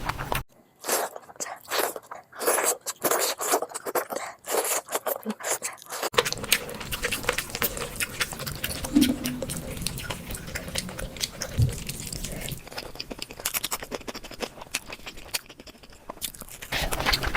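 Close-miked chewing and biting: wet smacking and crunching mouth sounds of someone eating with big mouthfuls, with a change in the background about six seconds in.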